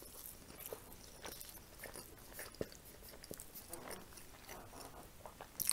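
A person chewing a bite of a thin pancake wrapped around a glazed curd-cheese bar with a dense, sticky cocoa filling: faint scattered mouth clicks, with a sharper sound near the end.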